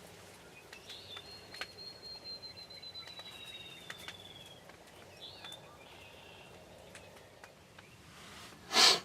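Outdoor field ambience with birds calling: one long, thin, high whistle that slides slightly lower over about three and a half seconds, a few short chirps, then a short loud burst of sound near the end.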